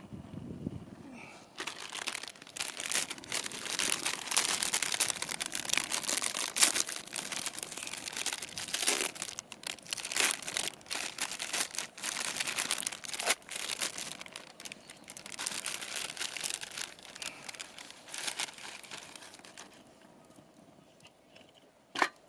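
Wrapping being handled: crinkling, crumpling and tearing, busy for most of the stretch and then dying away, with one sharp click near the end.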